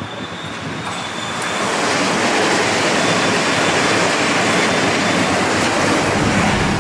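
A train passing close by: a rushing noise of wheels on rails that swells over the first two seconds, then holds steady.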